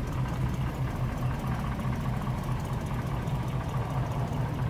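Vehicle engine idling with a steady, low, evenly pulsing rumble.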